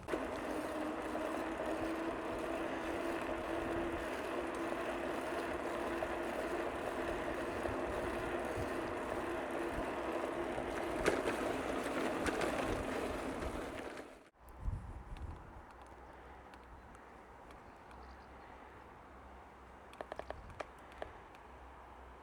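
Bicycle riding along a trail: steady rolling noise from the tyres and drivetrain with a faint steady hum. About 14 seconds in it breaks off suddenly to a quieter stretch of riding noise, with a few light clicks near the end.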